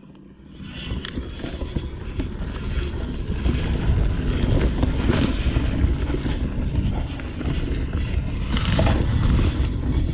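Mountain bike riding along a dirt trail, picking up speed over the first couple of seconds: tyre rumble with frequent knocks and rattles, and wind buffeting a chest-mounted action camera's microphone.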